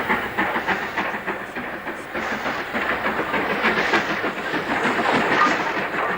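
LMS Black Five steam locomotive and its train running at speed, the wheels clattering rapidly over the rail joints under a steady rushing hiss.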